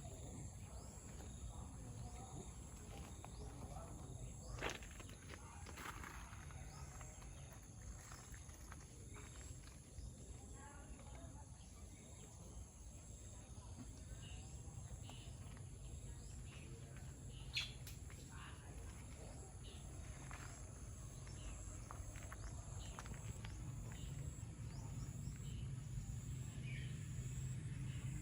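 Several birds chirping and singing faintly in the morning, scattered calls over a steady low background rumble. Two sharp clicks stand out, one about five seconds in and another a little past the middle.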